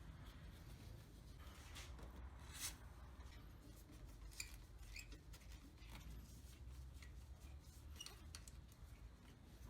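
Near silence with a low room hum and a few faint, short clicks and taps scattered through it.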